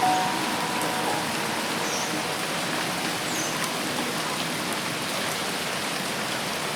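Dense rain falling steadily, an even hiss with no let-up.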